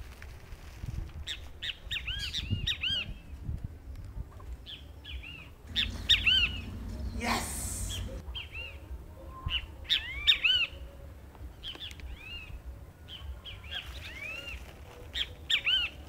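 Birds chirping in repeated clusters of short, arched calls that rise and fall, over a steady low rumble. A brief rush of noise cuts across about seven seconds in.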